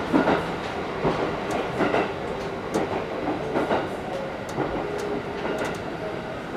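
JR East HB-E210 hybrid diesel-electric railcar running along the line, a steady rumble broken by the wheels clicking and knocking over the rail joints at irregular intervals.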